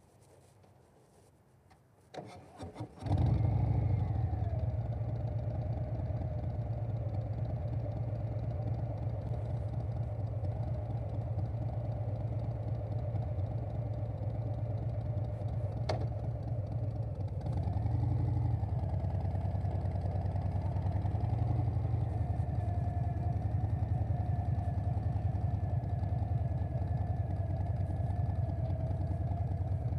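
2020 Harley-Davidson Softail Standard's Milwaukee-Eight V-twin, fitted with a Vance & Hines Big Radius 2-into-2 exhaust, cranks and catches about three seconds in, then idles with a deep steady throb. A single sharp click comes about halfway, and the engine runs a little louder for the last stretch.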